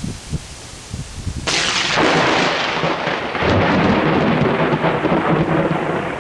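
Thunder from a nearby lightning strike: a low rumble, then about a second and a half in a sudden loud crack that carries on as crackling, rolling thunder.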